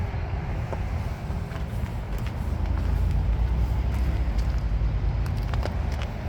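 Low engine rumble of a vehicle running, swelling a little in the middle, with a few light clicks.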